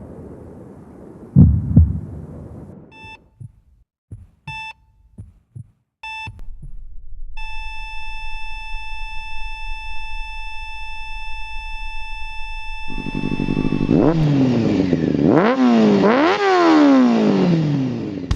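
A heartbeat thump, then three short electronic heart-monitor beeps and a long unbroken flatline tone. About thirteen seconds in, a motorcycle engine comes in and is revved hard several times, its pitch rising and falling with each blip of the throttle.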